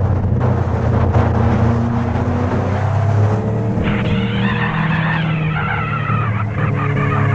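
Motorcycle engine running steadily under way, its pitch shifting slightly.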